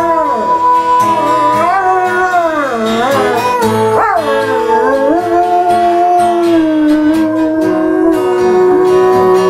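A dog howling in long, wavering notes that swoop up and down, along with music playing.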